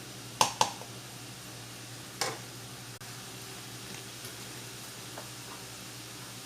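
A cooking utensil knocks sharply against a pot three times: two quick knocks about half a second in, then one more after about two seconds. Underneath is a steady hiss with a low hum.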